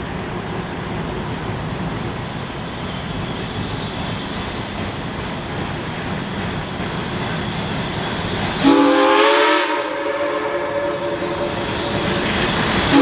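A steady rushing noise, then about 9 seconds in a geared steam locomotive's chime whistle sounds one short blast of several tones together, lasting about a second. A second blast begins at the very end.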